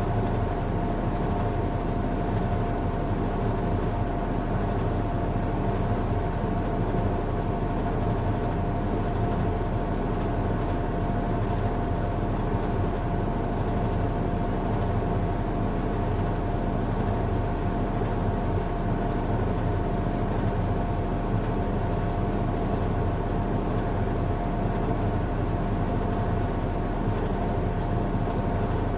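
Washing machine running a strong cycle: a steady mechanical hum with a constant whine, unchanging in level throughout.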